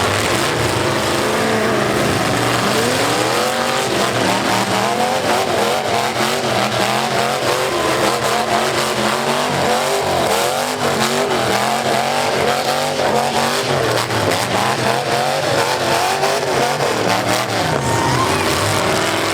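Several V8 demolition derby cars revving hard at once, their engines rising and falling over and over, with tires spinning and frequent sharp knocks of impacts mixed in.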